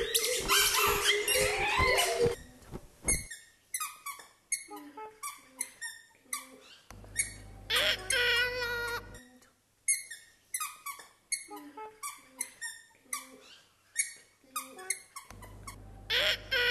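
Birds calling: a dense, overlapping chatter of calls at first, then short separate calls about two a second, with one longer call in the middle.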